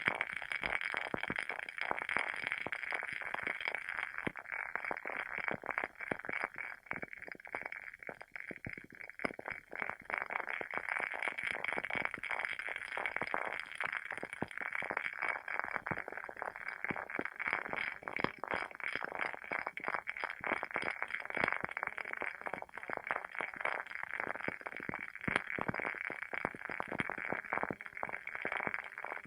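The wooden wick of a WoodWick candle burning with a steady, dense crackle, like a small fire. The crackle thins out briefly about a quarter of the way in.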